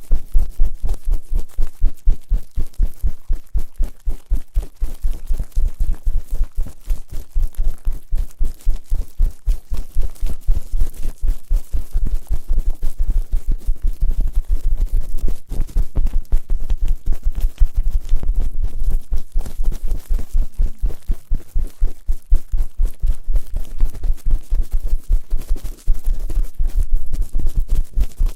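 Fast, rhythmic rubbing strokes on the ears of a binaural microphone (ASMR 'gori-gori' ear rubbing), about four strokes a second, each with a heavy, muffled low thud.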